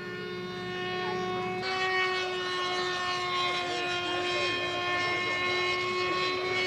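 Radio-controlled ducted-fan J-3 Cub model in flight, its ducted fan giving a steady high whine at a constant pitch that grows louder about a second and a half in.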